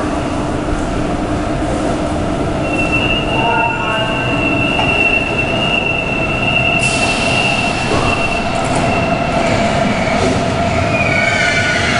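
Hamburg S-Bahn Class 474 electric trains in an underground station: a steady high-pitched wheel squeal starts about three seconds in and holds for several seconds, a sudden hiss joins about seven seconds in, and a rising and falling electric motor whine comes in near the end.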